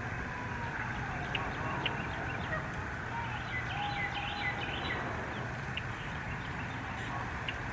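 Birds calling: scattered short, high chips and a few faint whistled glides, over a steady background of outdoor hiss and rumble.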